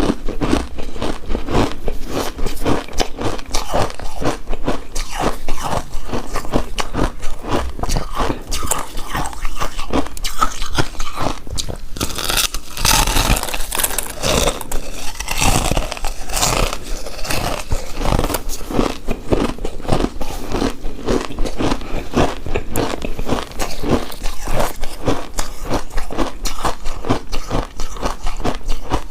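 Close-miked chewing of a chewy rice cake coated in shredded coconut, with dense rapid mouth clicks throughout. The sound grows louder and brighter for several seconds from about twelve seconds in.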